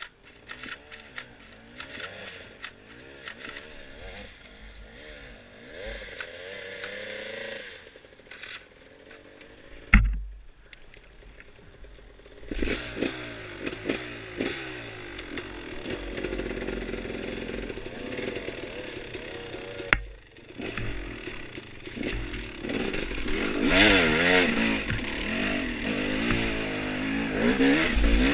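Dirt bike engine revving up and down as it is ridden, its pitch rising and falling over and over, with clattering from the bike. A sharp loud thump comes about ten seconds in and another about twenty seconds in, and the engine grows louder from about twelve seconds on.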